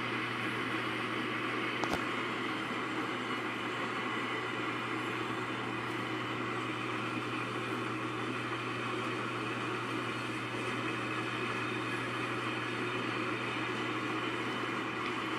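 BNSF freight train cars rolling past, a steady noise of wheels on rail, with one sharp click about two seconds in.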